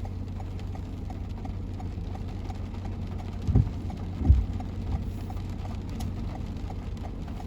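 Car cabin noise while driving in rain: a steady low road rumble with faint, evenly spaced ticking, and two short low thumps a little after the middle.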